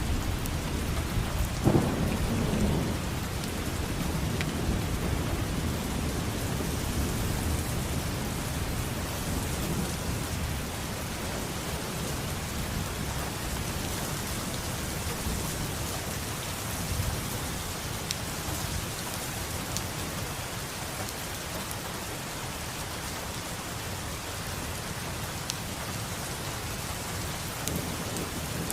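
Steady rain with a roll of thunder about two seconds in. The low rumble lingers and slowly fades under the rain.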